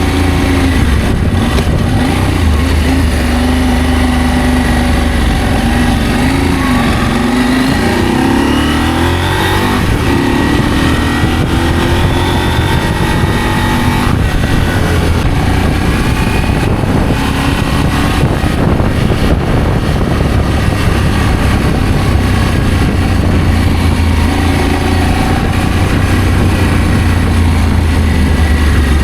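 Adventure motorcycle engine running under way, its revs rising and falling through the first ten seconds or so, then holding steadier.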